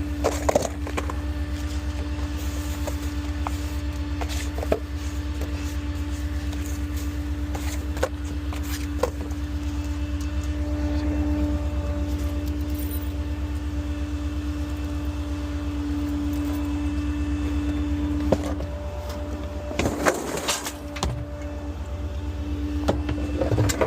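Small rear-loader garbage truck's engine running steadily, with a constant whine that stops about three-quarters of the way through. A few isolated clicks and, near the end, short bursts of clattering knocks.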